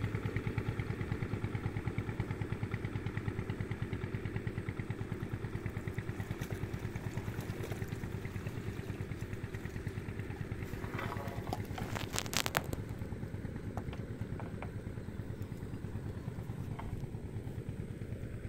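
A small engine running steadily with an even, fast pulsing beat, fading slightly over time. A brief burst of sharp clicks and clatter about two-thirds of the way through.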